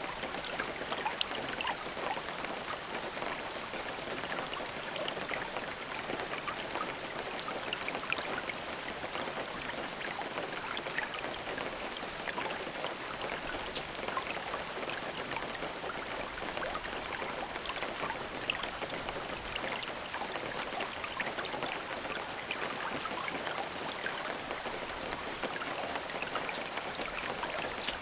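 Steady rain falling, an even hiss of rainfall with many small drop ticks throughout.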